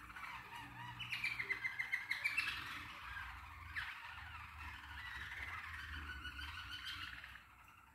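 A caged songbird singing a long, continuous warbling song with rapid trills, loudest in the first half, stopping shortly before the end.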